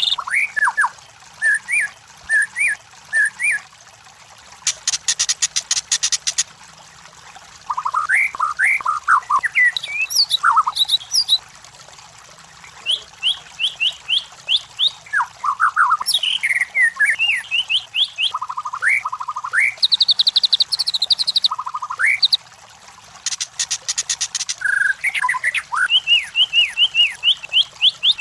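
White-rumped shama (murai batu) singing in varied phrases of clear whistled notes and quick slurred trills. The song is broken twice by a short harsh buzzing rattle.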